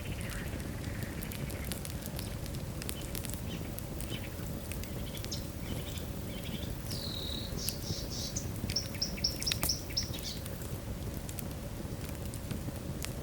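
Wood fire burning in a fireplace: a steady low rumble with scattered sharp crackles and pops. About seven seconds in, a bird chirps a quick run of high notes for a few seconds.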